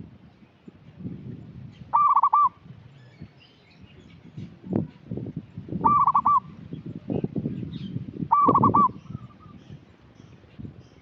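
Zebra dove (perkutut) singing: three short phrases of quick, trilled cooing notes, the last two close together, over a low, uneven background rumble.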